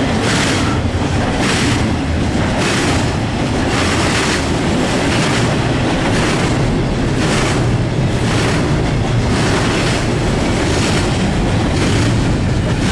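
Double-stack intermodal freight cars rolling past close by: a steady rumble of steel wheels on the rails, broken by repeated clacks as the wheel sets pass.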